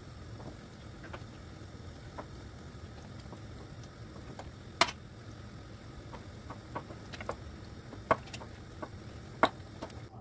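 Scattered light clicks and taps of kitchen work over a steady low room hum, with three sharper knocks about five, eight and nine and a half seconds in.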